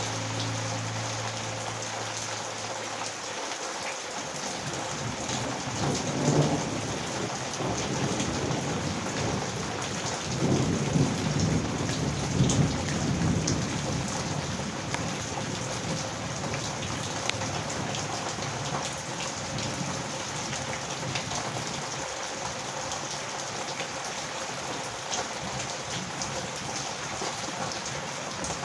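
Heavy rain pouring steadily, with thunder rumbling about six seconds in and again, longer, from about ten to thirteen seconds in. A low steady hum is also heard for the first three seconds, then stops.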